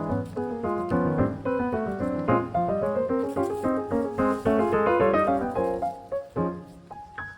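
Background piano music, a melody of quick notes over chords.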